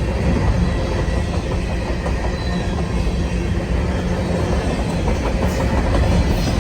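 CSX manifest freight train rolling past, a steady rumble and clatter of steel wheels on the rails.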